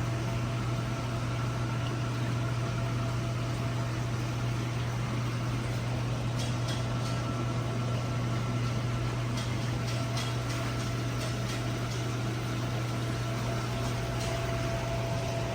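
Steady low electrical hum with an even hiss of bubbling water, from the pumps, filters and air bubblers running on a bank of aquarium fish tanks.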